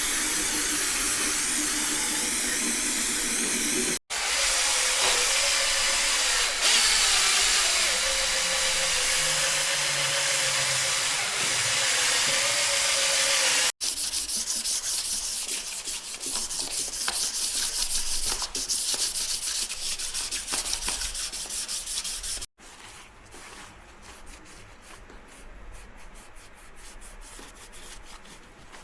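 Abrasive scrubbing and sanding on a diesel cylinder head during its cleaning, heard in several short clips cut together. A power tool's steady hum runs under the second clip, and the last clip is quieter, with rapid short scraping strokes.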